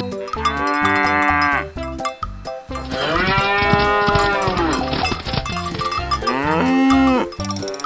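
Cows mooing: three long moos, each rising and then falling in pitch, the first about half a second in, the second about three seconds in, and a shorter one about six seconds in, over a steady low background beat.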